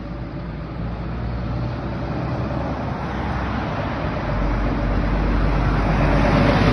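Road traffic: a passing vehicle, likely a lorry, approaching with engine drone and tyre noise that grow steadily louder toward the end.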